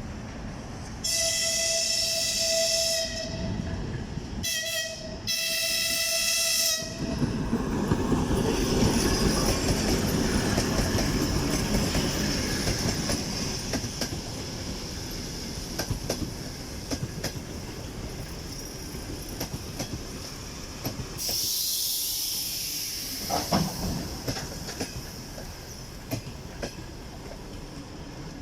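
A 2TE116U twin-section diesel locomotive sounds its horn three times, a long blast, a short one and another long one, then runs past with the rumble of its engine and wheels on the rails, which slowly fades. Near the end comes a short burst of hissing.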